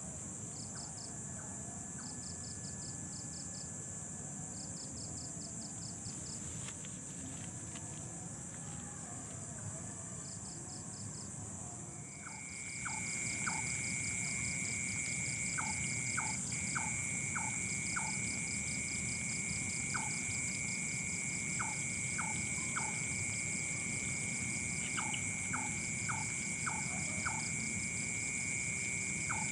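Night insects such as crickets: a steady high drone with rapid, evenly pulsed trills in short groups. About twelve seconds in, a louder steady high-pitched whine sets in and holds, with scattered short chirps over it.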